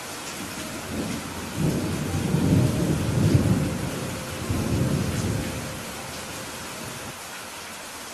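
Steady heavy rain hissing, with a roll of thunder rumbling in about a second in, swelling and fading out again after a few seconds.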